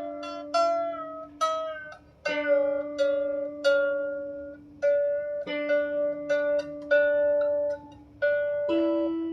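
A 16-string lyre harp being tuned: one string plucked again and again, about a dozen times, its pitch bending slightly between plucks, over a lower string left ringing. Near the end the lower note steps up in pitch.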